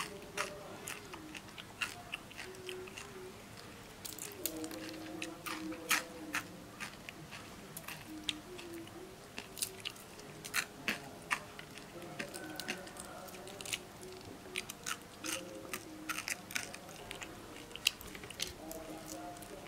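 Close-up chewing and biting of crispy grilled frogs, with irregular sharp crunches as the small bones and skin are bitten through and pulled apart by hand.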